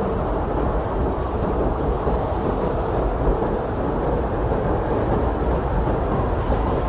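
Blizzard wind blowing steadily, a dense, dull rush of noise with a deep rumble underneath and no single gust standing out.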